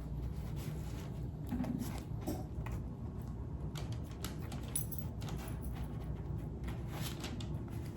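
Light handling noises of soft yeast rolls being split open and pieces of fried chicken set into them: scattered soft taps and small clicks over a steady low hum.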